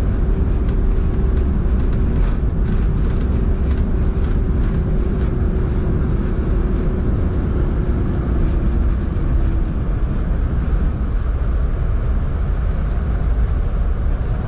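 Cabin noise inside an Embraer E190-E2 airliner during its landing: a loud, steady rumble, with a faint tone that slowly falls and fades out about ten seconds in.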